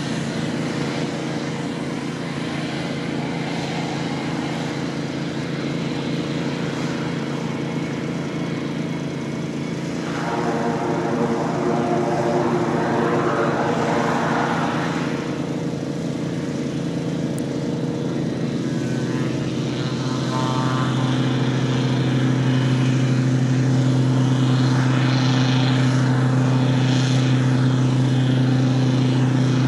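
Air Tractor 802 agricultural plane's turboprop engine and propeller running with a steady drone. About a third of the way in there is a swell of rushing noise for several seconds. From about two-thirds of the way through, a deeper and louder drone builds.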